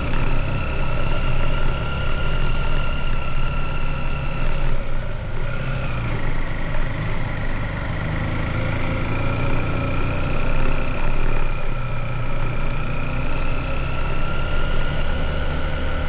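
Motorbike engine running under way, a steady low rumble with a whine whose pitch dips about five seconds in and then slowly climbs again.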